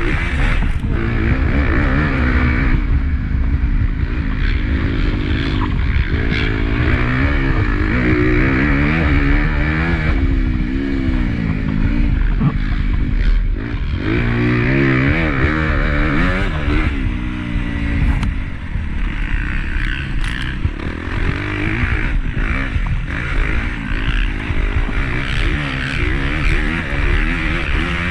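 Honda CRF250 motocross bike's four-stroke single-cylinder engine being raced, its pitch rising and falling again and again as the throttle is worked and the gears changed, heard from an on-board camera.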